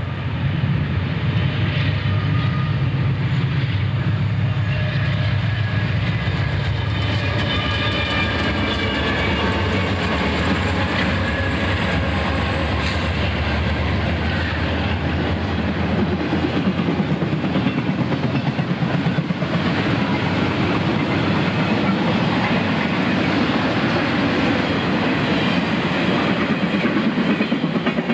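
Intermodal freight train passing close by: its diesel locomotives go by first, then, from about halfway through, the trailer-carrying cars roll past with a steady clickety-clack of wheels over the rail joints.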